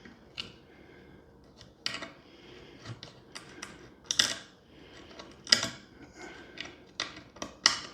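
Irregular light clicks, taps and scrapes of small hand tools working at a wooden organ bellows board, loudest about four seconds in and again about five and a half seconds in.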